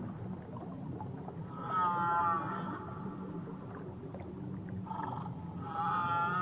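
Whale calls heard underwater: a wavering, pitched moan about a second and a half in, lasting about a second, then a short call and another long wavering moan near the end, over a steady low underwater rumble and hiss.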